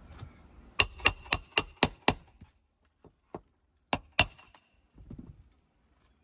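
Hammer driving roofing nails through an asphalt shingle. There is a quick run of six ringing blows about a second in, then two more blows near the four-second mark.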